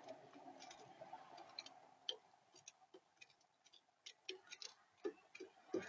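Faint, irregular clicks and taps at a bird feeder, picked up close by the feeder camera's built-in microphone, with a steady hum through the first two seconds.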